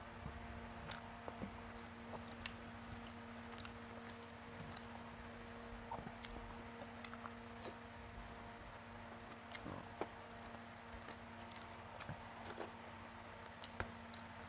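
Close-miked mouth sounds of a person chewing rice and rohu fish curry eaten by hand: scattered soft clicks and smacks. A steady faint hum runs underneath.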